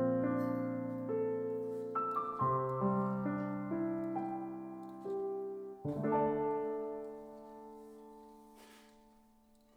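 Soft, slow solo piano background music: gentle chords struck a few seconds apart and left to ring out, fading away near the end.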